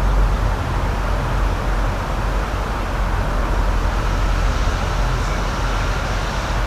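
Steady outdoor rushing noise with a deep low rumble, no distinct events.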